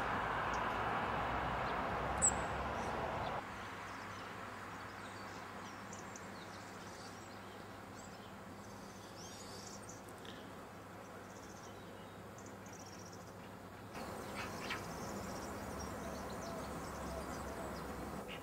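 Small birds chirping now and then, short high calls over a steady outdoor background hiss. The hiss is louder for the first few seconds, drops at about three and a half seconds, and rises again at about fourteen seconds.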